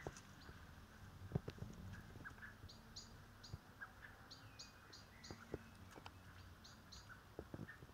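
Faint small-bird chirps: short high notes in quick runs of three or four, repeated several times, with a few soft clicks, the loudest a little over a second in.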